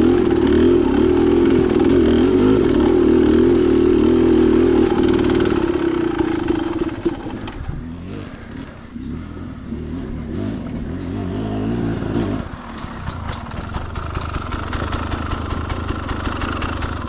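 Dirt bike engine running hard on the trail, then easing off about six seconds in and running quieter at low revs.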